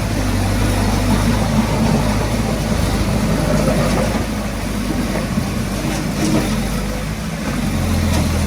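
Heavy-equipment diesel engine running steadily, with its low drone growing stronger near the end.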